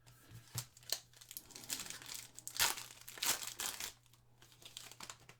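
Foil trading-card pack wrappers crinkling and tearing as a pack is opened and handled. The sound comes in irregular bursts, loudest around three seconds in.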